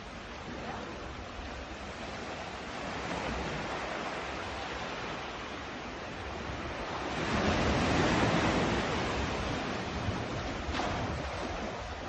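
Sea waves washing onto the shore, a steady rush that swells as one wave breaks about seven seconds in, then falls back.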